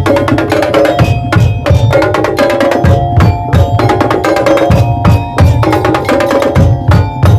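Daul Madura percussion ensemble playing at full volume: quick, dense drum and wood-block strokes over a recurring low drum beat, with ringing pitched metal tones carrying a melody.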